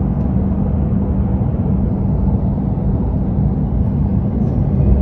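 Hokuriku Shinkansen train running on an elevated viaduct, heard inside the passenger cabin as a steady low rumble.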